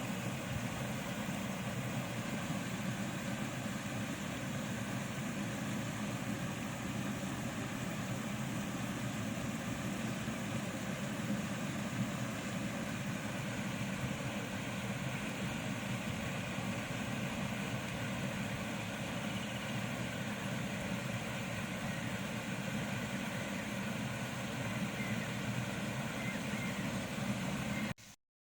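Engine of heavy machinery running steadily at an even speed, with no knocks or impacts, then cutting off suddenly near the end.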